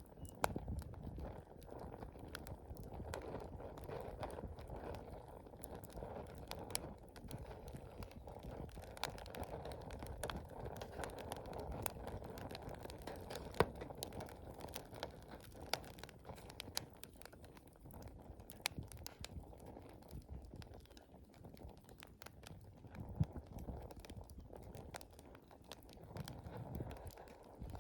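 Wood campfire burning: a low, steady rush of flame with frequent small crackles and sharp pops from the burning wood. One pop about halfway through is louder than the rest.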